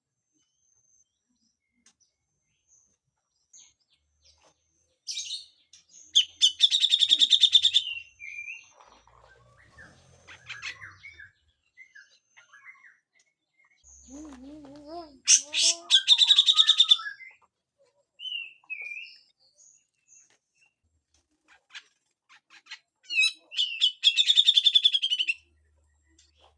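Grey-cheeked bulbul (cucak jenggot) giving loud, harsh, rasping call bursts, three times about eight seconds apart, with softer scattered notes between.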